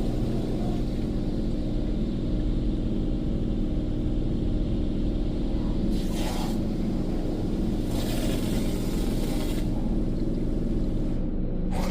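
Mark VII AquaJet XT touchless car wash running its high-pressure pass over the car, heard from inside: a steady hum from the pump and gantry. Hissing bursts of water spray hit the car about six seconds in and again about eight seconds in.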